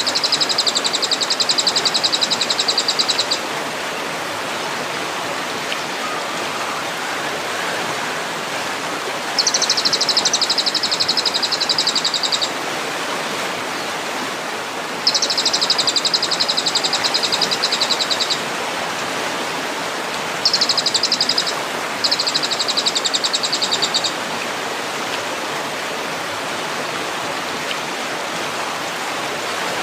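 Steady rush of flowing water under a birdsong training (masteran) recording, with high, very rapid buzzy trills that come five times, each lasting one to three seconds.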